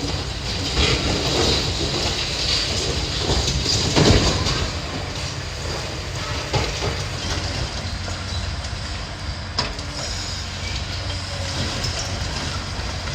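Demolition machinery at work: a heavy diesel machine runs with a steady rumble while debris knocks and clanks, with a louder crash about four seconds in.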